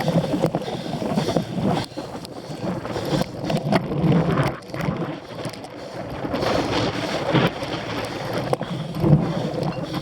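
Wind buffeting the microphone of a cyclocross bike being ridden over rough ground, with irregular knocks and rattles from the bike.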